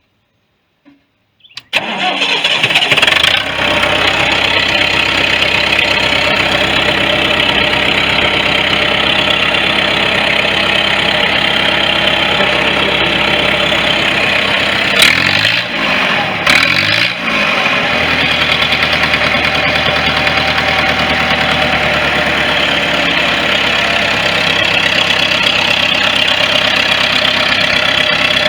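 A 1973 International 3444 loader tractor's diesel engine starts after preheating, catching about two seconds in and running fast. Around halfway the revs drop and rise twice, then it settles into a steady, lower idle.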